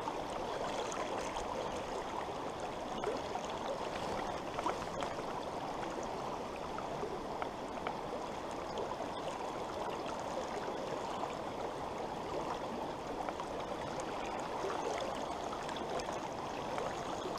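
A small brook running over rocks: a steady rush of water, with a few faint ticks.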